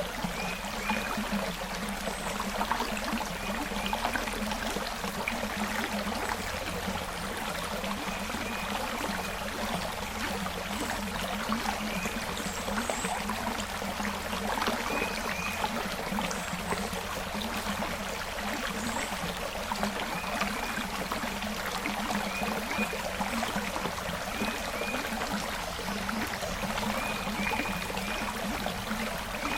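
Small forest creek flowing and trickling steadily, with a few faint short high chirps recurring every few seconds.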